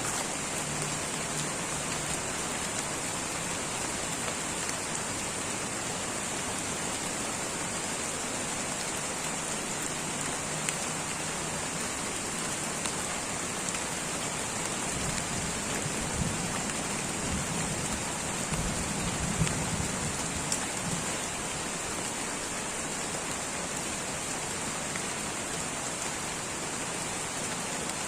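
Steady light rain falling in a tropical rainforest, an even hiss of drops on foliage, with a low rumble swelling briefly a little past the middle.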